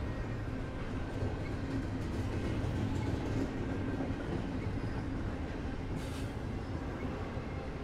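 CSX intermodal freight train of double-stacked containers on well cars rolling steadily past, a continuous low rumble of wheels on rail.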